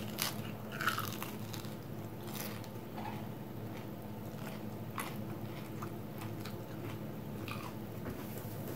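A person biting into and chewing crumb-coated fried cheese sticks, with a few soft crunches now and then. A steady low hum runs underneath.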